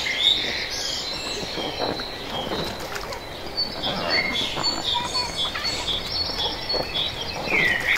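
Birds chirping, a steady run of short, high, repeated notes.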